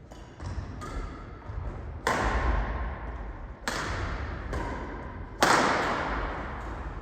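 Badminton rally: rackets strike the shuttlecock about five times, one to two seconds apart, each sharp crack ringing out with echo in a large hall. Thudding footsteps on the court run underneath, and the hardest hit comes about five seconds in.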